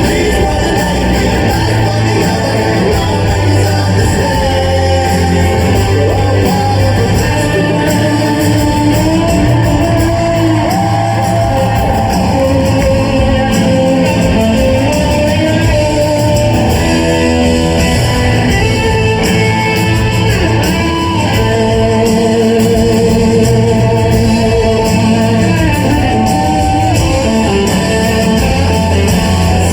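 Live rock band playing in a large concert hall, with guitars and singing, heard from among the audience.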